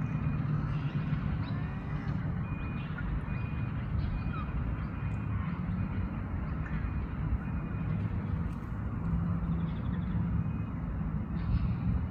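Steady low rumble of a motor vehicle or traffic, with faint bird chirps and a faint high beep repeating evenly through the first half.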